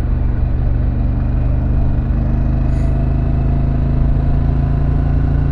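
2024 Harley-Davidson Pan America's 1250 cc Revolution Max V-twin running under way, holding a steady, even engine note after a slight rise in pitch at the start.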